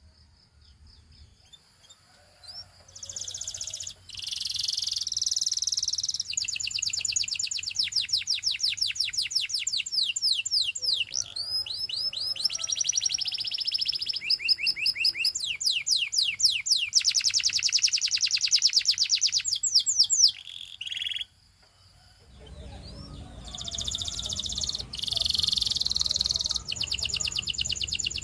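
Domestic canary singing, starting a few seconds in: long runs of fast, high-pitched trills of rapidly repeated notes, breaking off briefly about twenty seconds in before resuming over a low background noise.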